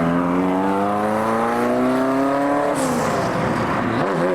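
A sports car's engine accelerating hard, its pitch rising steadily, then dropping sharply about two and a half seconds in as it shifts up, then climbing again near the end.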